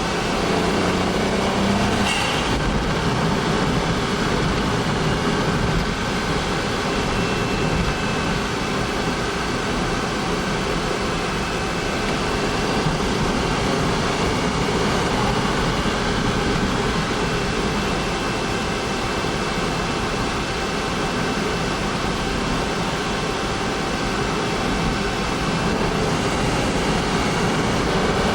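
Honda S660's turbocharged 658 cc three-cylinder engine running steadily, a continuous even drone with a faint thin high tone over it and a brief tick about two seconds in.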